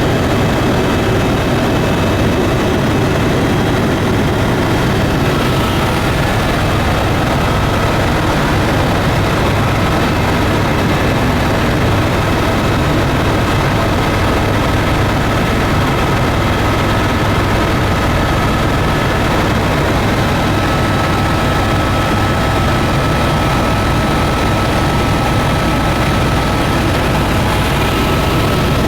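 Sightseeing airplane's engines and propellers droning steadily in flight, a loud, even noise with faint steady tones in it.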